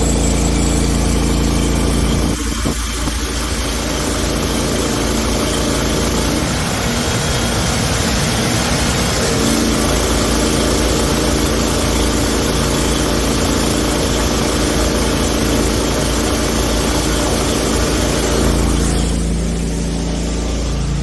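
Pressure washer's 23 hp Vanguard V-twin gasoline engine running steadily, with a loud high hiss over it; the hiss drops away near the end.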